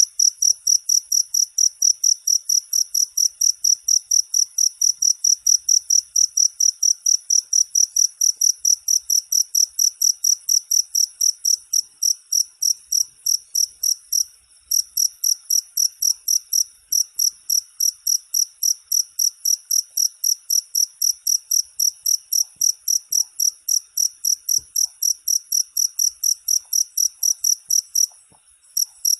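Cricket chirping in a fast, steady rhythm of high-pitched pulses, about four a second, with two brief pauses, one midway and one near the end.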